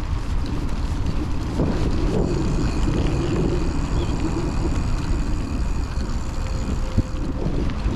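Wind buffeting a chest-mounted action camera's microphone while riding a hardtail mountain bike on an off-road trail, a steady rumbling noise with a single sharp knock about seven seconds in.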